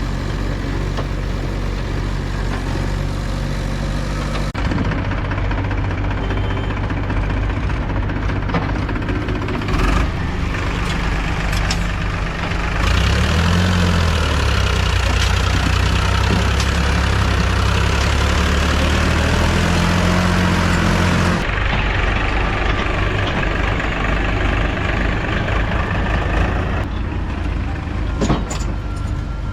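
Diesel engine of a JCB 3DX backhoe loader running, rising to a higher, louder rev for several seconds in the middle as it works, with a few short knocks.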